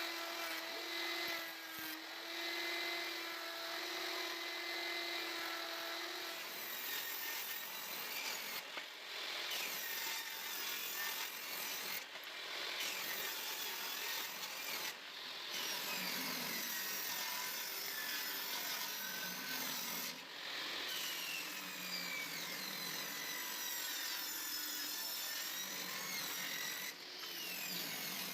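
Woodworking power tools running on pallet wood. A steady motor whine for about the first six seconds, then a noisier stretch with shifting high whines, broken several times by short pauses.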